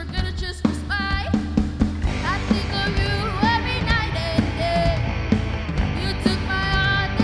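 Live rock band playing a song: a singer over drums and bass, with the beat steady throughout.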